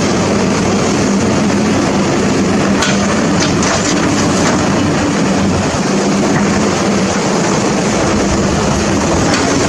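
A heavy engine running steadily at a constant speed under a loud, even rush of noise, with a few faint clicks a few seconds in.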